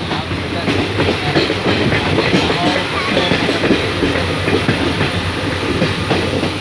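A train running on the rails: a steady rumble with the wheels clattering over the track.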